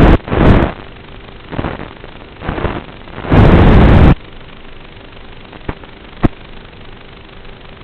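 Gusts of wind buffeting the microphone in loud rumbling blasts, the longest lasting nearly a second, over a faint steady hum; two short sharp clicks near the end.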